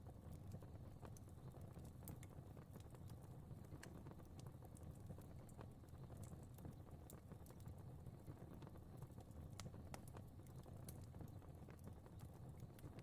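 Fire crackling faintly: irregular small pops and snaps over a steady low rumble.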